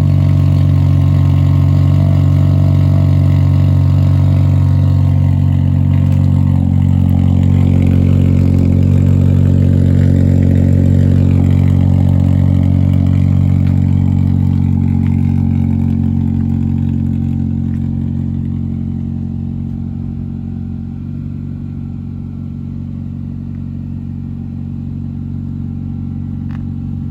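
2020 Honda Civic LX four-cylinder engine idling through a straight-piped exhaust, its muffler deleted but resonator kept, with an added tip. It is a steady deep drone that eases off a little in loudness about two-thirds of the way through.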